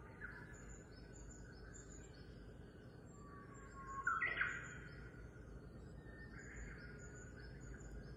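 Birds chirping: a short high chirp repeating about twice a second, with a few lower whistled calls, the loudest a rising call about four seconds in.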